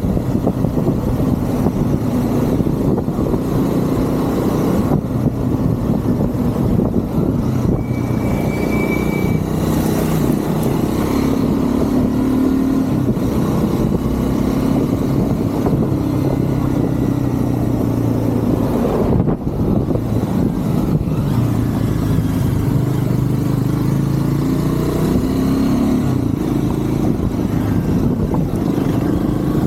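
Triumph Scrambler 400 X's single-cylinder engine running while the motorcycle rides through city traffic, its pitch rising and falling as the rider accelerates and eases off. About eight seconds in a brief high tone sounds over it.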